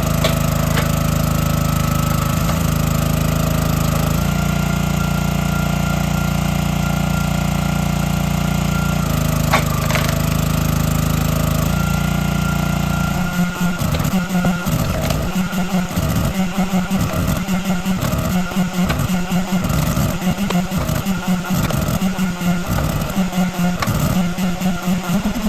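Small engine running steadily at a constant speed. About halfway through, it gives way to music with a quick, regular pulsing beat.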